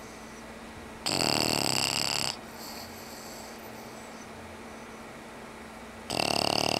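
A sleeping English bulldog snoring: two loud snores about five seconds apart, the first about a second long and the second near the end.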